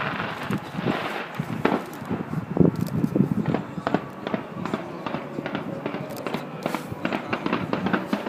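New Year's fireworks display bursting: a dense run of bangs and crackles, several a second.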